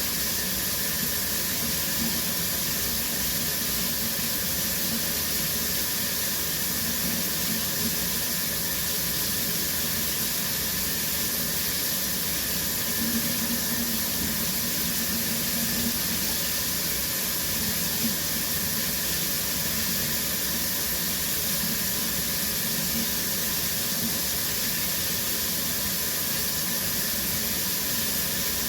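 Shower running steadily, its spray of water making an even, unbroken rush.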